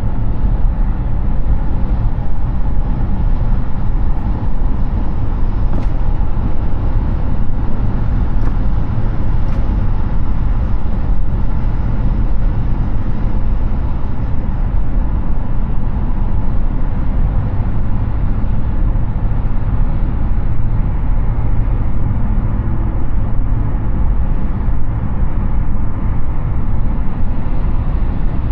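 Steady tyre and wind noise of a Hyundai Ioniq 6 electric car cruising at highway speed: a constant low rumble and rush with no engine sound.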